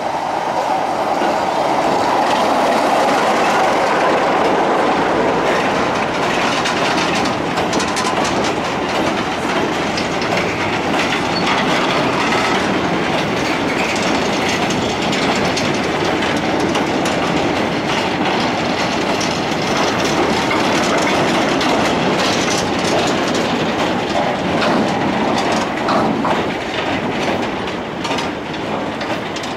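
A train running steadily along the track, its wheels clicking over the rail joints with a continuous clickety-clack.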